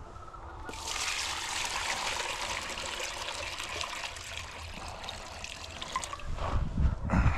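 Water pouring steadily into a chicken waterer, starting about a second in, followed by a few low thuds near the end.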